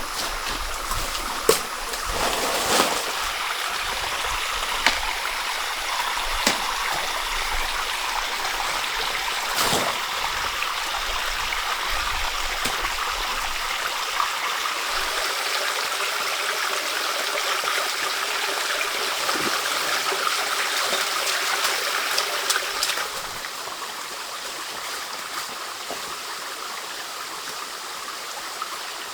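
Stream water flowing steadily, with a few short knocks in the first half. The water sound drops to a quieter level about three-quarters of the way through.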